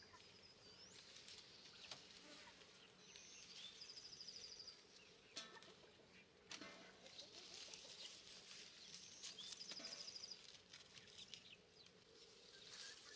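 A small bird singing a high, rapid trill with short chirps, twice, about six seconds apart, over faint outdoor background. A couple of faint clicks fall between the two songs.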